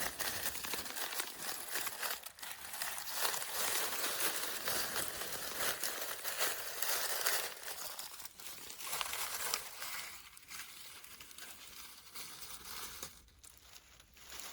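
Crinkling and rustling noise made of many small crackles, loud for the first eight seconds or so, then fainter.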